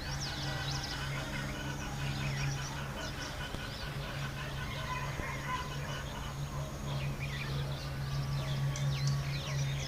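Small birds chirping in quick, scattered calls, busiest near the start and again in the last few seconds, over a steady low hum.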